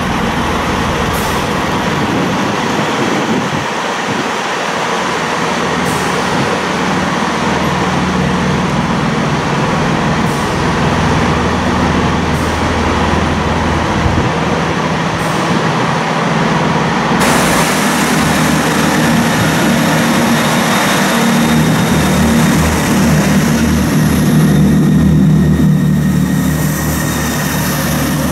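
Diesel train engines running at a station, a steady low drone with a hiss above it. About two-thirds of the way through the sound grows fuller and brighter.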